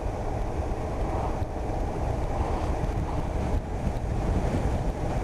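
Steady rush of wind buffeting the microphone of a moving motorcycle.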